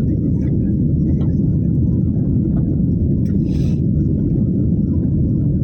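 Steady low rumble of an airliner's cabin noise, even and unbroken, with a brief hiss about three and a half seconds in.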